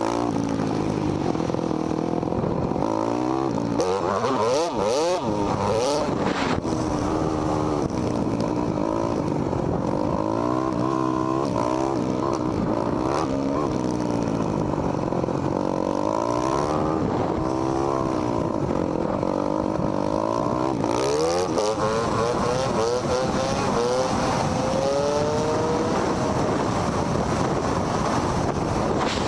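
Dirt bike engines revving, the pitch repeatedly rising and falling as the throttle opens and closes, with several engines overlapping.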